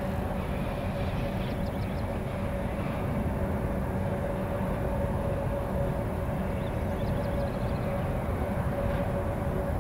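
Diesel-electric freight locomotives running steadily as they haul a loaded train across a steel viaduct: a low engine rumble with a steady mid-pitched tone over it.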